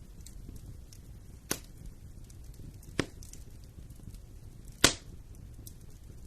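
Wood fire burning in a fireplace: a low steady rumble of flames with light crackling, and three sharp pops of burning wood, the loudest near the end.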